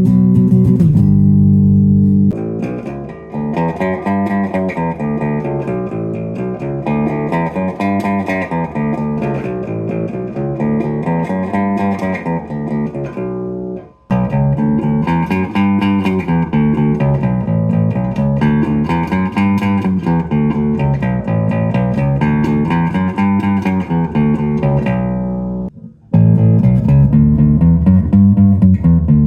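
Electric bass guitar played through an amp: a few sustained low notes, then a riff of notes that repeatedly rises and falls. The riff stops briefly about halfway through and starts again, then breaks into loud low notes near the end.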